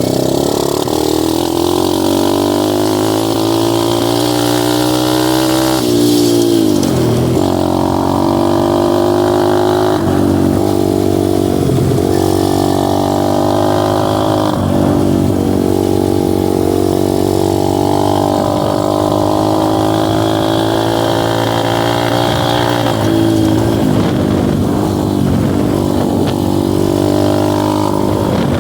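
Dirt bike engine running under way on a trail ride, its pitch falling and climbing again with throttle and gear changes, with a deep drop about six seconds in and several smaller ones after.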